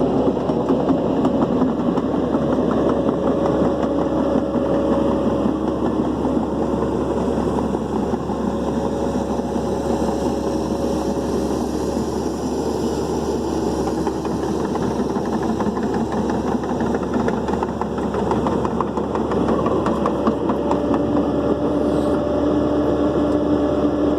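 Diesel engine of a dump truck running steadily, a continuous drone with a steady hum over it.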